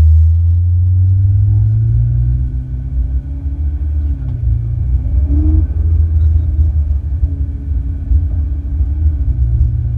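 Ferrari 488 GTB's twin-turbo V8 running under way over a heavy low rumble. The engine note climbs over the first couple of seconds, drops about four seconds in and climbs again, then dips and picks up once more near the end.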